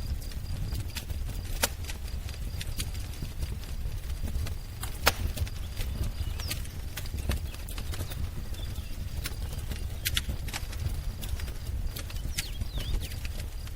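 Wood fire crackling, with irregular sharp pops over a steady low rumble, and a few faint bird chirps.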